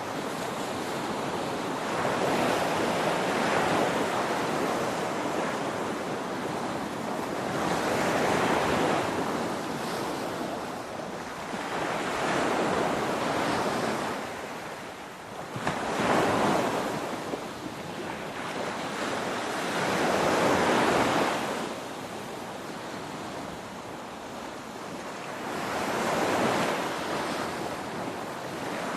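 Ocean surf: waves breaking in about six slow surges, each swelling up and falling away every four to six seconds, with one sharper crash about halfway through.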